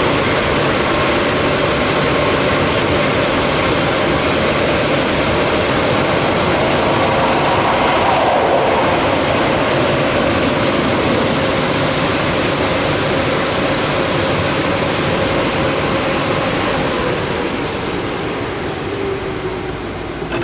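Daifuku Fabrica automatic car wash machine running: a loud, steady rushing noise with a steady hum, easing off over the last few seconds.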